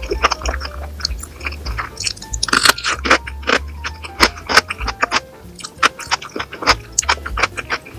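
Close-miked crunchy chewing and biting of food: many sharp, irregular crunches over background music.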